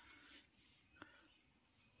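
Near silence: faint rustling with one short click about a second in.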